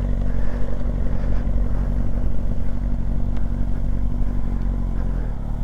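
Motorcycle engine running at a steady low speed, its pitch holding even throughout.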